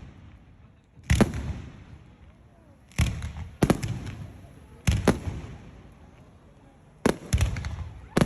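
Aerial fireworks shells bursting: sharp bangs, some single and some in quick doubles and triples, about every two seconds, each followed by a rumbling echo that dies away.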